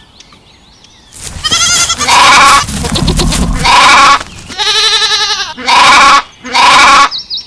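Goats bleating: a run of loud, quavering calls one after another, starting about a second in.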